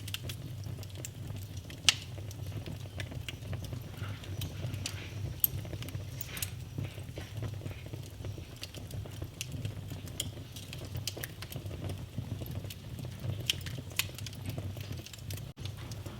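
Fire burning in a fireplace, crackling with irregular sharp pops over a steady low rumble of the flames, two louder pops about two and five seconds in.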